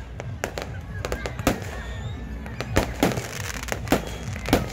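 Aerial fireworks going off: an irregular run of sharp bangs and crackles, several a second, with the loudest bangs about three seconds in and again near the end.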